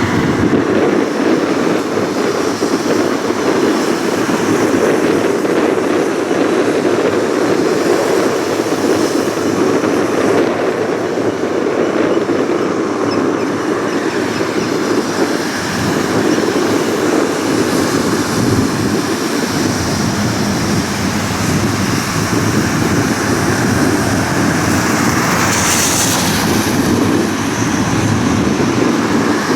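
Jet airliner's engines running steadily as it taxis, a continuous rumble with a brief hissing rise about three-quarters of the way through.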